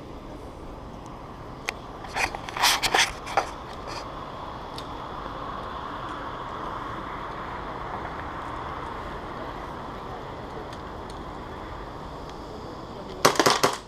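Airsoft guns firing: quick clusters of sharp cracks, several shots about two to three and a half seconds in and another rapid string near the end, over a steady background hum.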